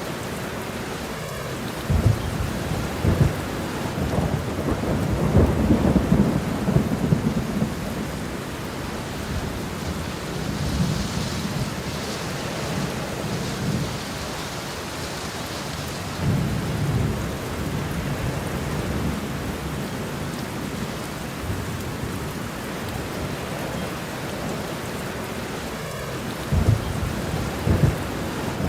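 Steady rain with rolling thunder: low rumbles swell and fade several times over the steady hiss, the strongest a few seconds in and again near the end.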